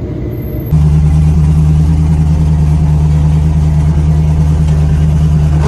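Pro drift car's engine running at a steady, unchanging pitch while cruising, starting abruptly about a second in.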